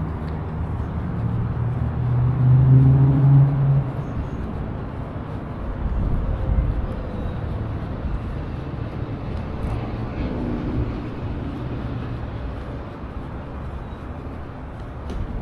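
Road traffic passing, with vehicle engine hum swelling loudest about two to four seconds in and another vehicle going by near ten seconds.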